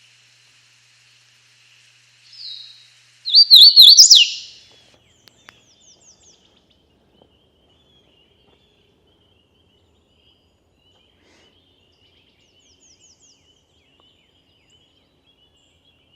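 Wild songbirds calling: one loud, close burst of quick wavering song notes about three seconds in, then faint short series of high down-slurred notes twice, over a faint steady high trill.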